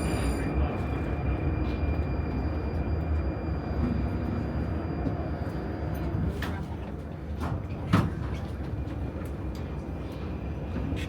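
Prague metro train running and slowing: its low rumble fades gradually, a high whine cuts off about half a second in, and a few sharp clicks and knocks follow, the loudest about eight seconds in.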